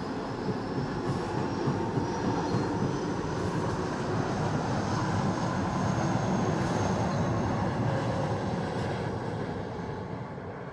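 Train passing on the track: a steady, noisy rumble of wheels rolling on the rails, with a faint high whine, fading near the end.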